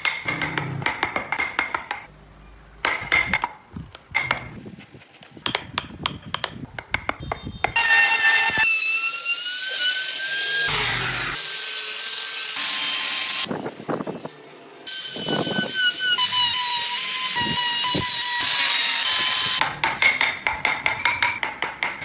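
Wood being carved by hand with rapid, uneven tapping strikes, then a handheld power tool cutting into the wood. The tool's whine shifts in pitch as it bites, and it stops briefly partway through. Rapid tapping resumes near the end.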